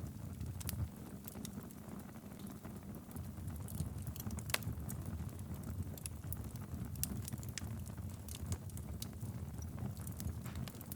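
Wood fire burning in a fireplace: a steady low rumble of flames with irregular sharp crackles and pops scattered through.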